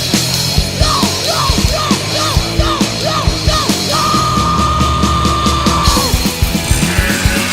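Loud, fast punk or heavy rock music with a driving drum beat. A run of short pitch-bending notes gives way to one long held high note about midway.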